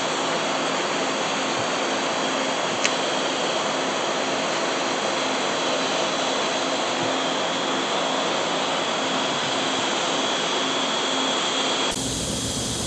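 TIG welding arc burning with a steady hiss as a weld bead is laid, a faint click about three seconds in. Near the end the sound changes abruptly.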